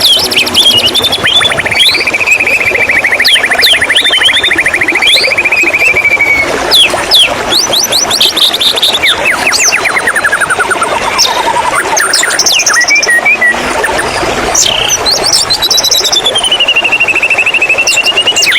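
White-rumped shama singing a varied song of long rapid trills, falling whistles and sharp chips, over a steady hiss of running water.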